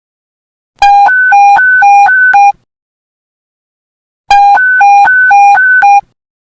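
Police panic-button alert tone: a fast beep alternating between a low and a high pitch. It sounds in two bursts of just under two seconds each, with a pause of about a second and a half between them.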